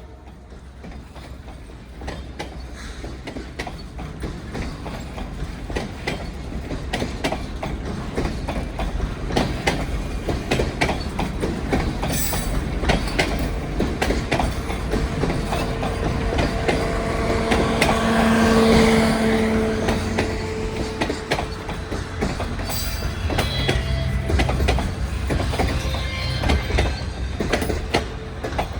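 CPKC Holiday Train rolling past, its railcar wheels clicking steadily over the rail joints under a continuous rumble that builds to its loudest about two-thirds of the way through. Around the loudest point a brief steady whine rises from the wheels, then eases off.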